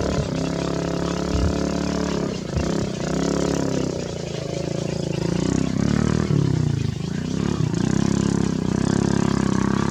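An engine running steadily, its pitch dipping and rising again a few times.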